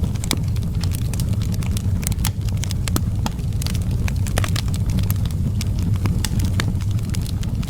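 Outdoor wood fire burning, a steady low rumble of flames with many irregular sharp crackles and pops of burning wood.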